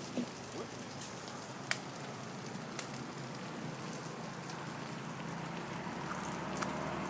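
Steady patter of rain, with a few sharp clicks, one louder than the rest about two seconds in.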